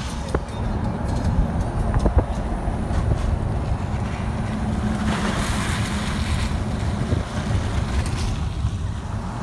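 Car driving, heard from inside the cabin: a steady low engine and road rumble, with a rushing noise that swells for about a second and a half around the middle.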